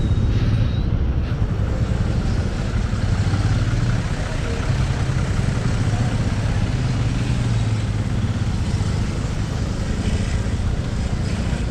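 Yamaha Ray ZR scooter riding at road speed: a steady low drone of engine and road noise under a continuous rush of wind.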